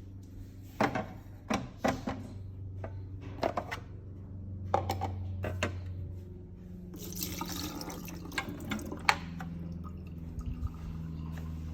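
Plastic drip tray of a bean-to-cup coffee machine being handled with a few sharp knocks and clicks, then emptied: water pours and splashes into a sink for a couple of seconds, starting about seven seconds in, over a low steady hum.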